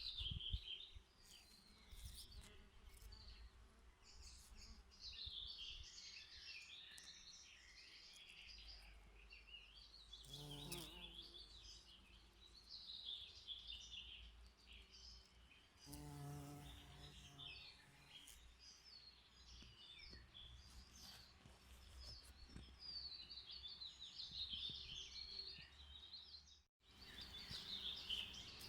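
Faint songbirds twittering and chirping continuously, with two brief lower-pitched sounds about ten and sixteen seconds in.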